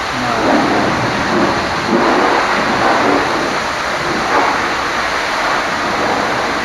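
High-pressure water spray striking a truck's cab and bodywork: a steady rushing hiss that swells and eases as the jet sweeps across.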